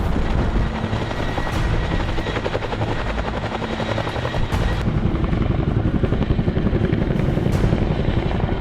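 Helicopter rotors running steadily with a rapid chop, growing heavier and louder about five seconds in.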